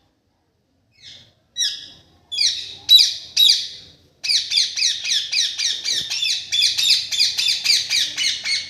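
Pet green parrot calling: a few separate harsh squawks that get louder over the first few seconds, then a fast unbroken run of repeated squawks, about four or five a second.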